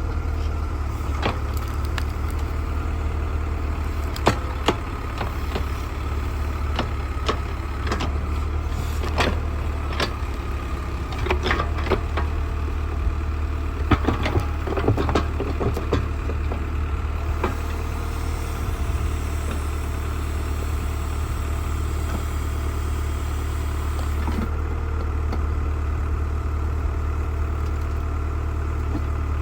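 An old tractor's backhoe engine runs steadily at a low drone while the machine digs. Scattered knocks and clanks of the bucket and its linkage come through, most of them in the first half.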